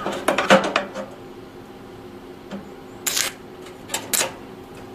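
Stick-welding on a steel flue pipe: a clatter of metallic clicks, then two short crackling bursts a second apart as the electrode strikes an arc and quickly breaks off. The current is likely set too high.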